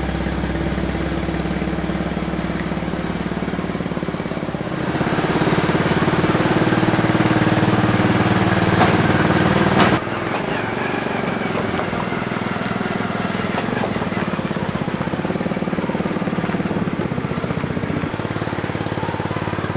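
Motorcycle engine running steadily. It speeds up and grows louder about five seconds in, then drops back abruptly about halfway through and runs on steadily.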